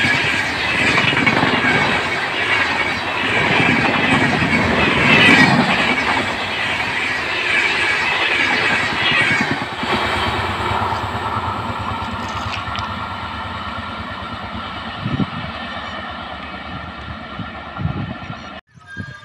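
A passenger train of LHB coaches running past at speed, its wheels rattling over the track in a pattern that repeats about once a second. The last coach passes about halfway through, and the sound then fades steadily as the train draws away, before cutting off suddenly near the end.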